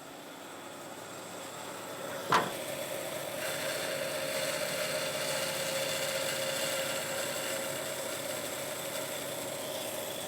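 A sharp click about two seconds in, then an electric power tool's motor running steadily for about seven seconds and winding down at the end.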